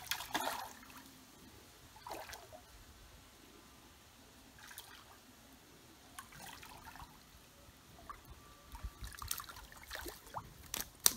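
Hooked fish splashing and thrashing at the water's surface as it is played in on the line, in short separate splashes with water trickling between them. The splashes come thicker in the last couple of seconds, ending in one sharp slap as the fish reaches the bank.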